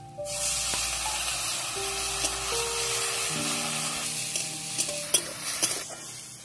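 Water poured into hot oil and frying onions in a wok, a loud sudden sizzle that starts about a quarter second in and slowly dies down, with a metal ladle clinking against the pan a few times near the end.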